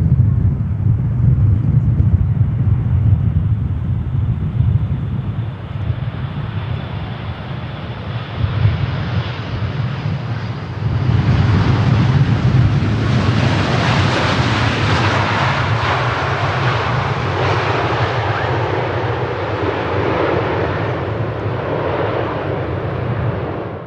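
Boeing 787 jet airliner landing: a steady low engine rumble, then about halfway through a louder rushing roar builds and holds before cutting off suddenly.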